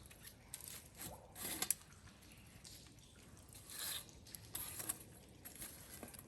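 Scattered rustling and scraping of things being handled, with a few small clicks; the loudest rustles come about a second and a half in and again near four seconds.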